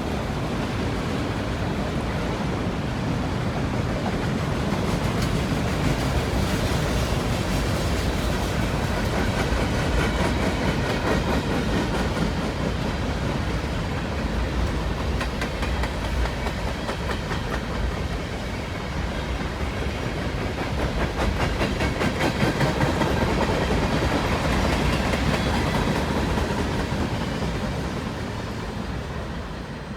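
Freight cars of a long mixed manifest train rolling past at speed, a steady rumble with rapid clickety-clack of wheels over rail joints, easing off near the end.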